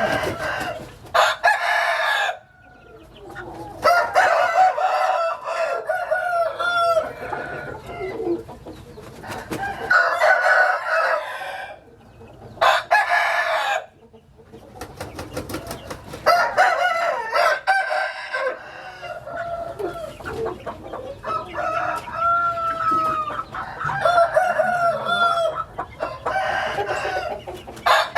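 Gamefowl roosters crowing again and again, several birds overlapping one another, with some clucking between crows.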